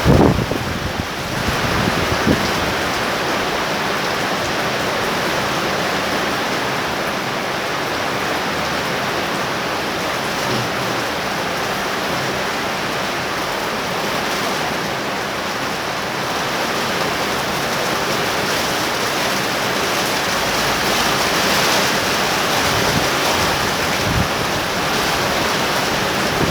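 Heavy rain pouring down steadily in a torrential downpour.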